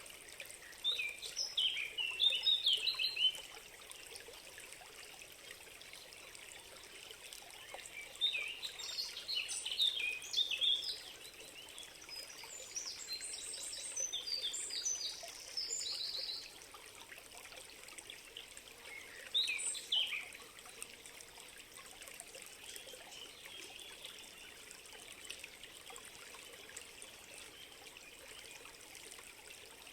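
A stream trickling steadily, with a songbird singing short bursts of quick chirping notes: one about a second in, a longer run from about 8 to 16 seconds in, and a brief one near 20 seconds.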